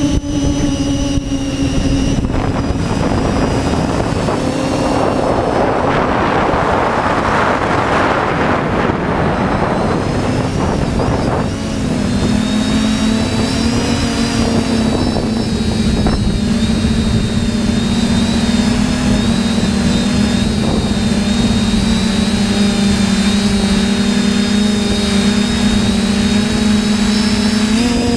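TBS Discovery quadcopter's electric motors and propellers whining steadily, flying in gusty wind. The pitch dips about halfway through and then holds. A loud rush of wind noise covers it for several seconds early on.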